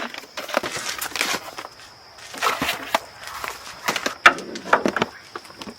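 Irregular knocks, clunks and rustling of things being handled and set down, with one sharper knock a little past four seconds in.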